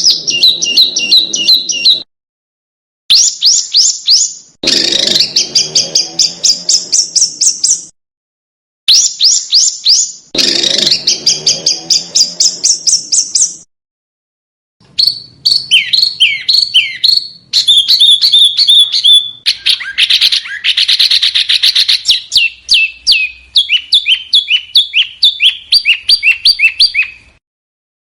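Small songbirds singing rapid, sharp, high-pitched repeated notes in loud phrases of one to a dozen seconds. The phrases are cut apart by abrupt dead silences, as in an edited birdsong training recording (masteran) made for cage songbirds to copy.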